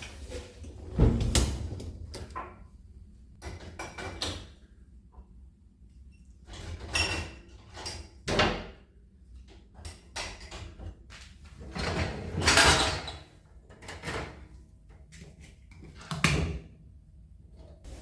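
Household handling sounds in separate bursts: knocks and bumps of doors and cupboards being opened and shut, with rustling between them. The loudest bursts come about a second in and about two-thirds of the way through.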